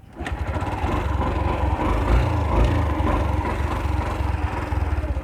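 Yamaha YTX125 motorcycle's single-cylinder four-stroke engine starting up a moment in and running at idle, with two short throttle blips about two seconds in.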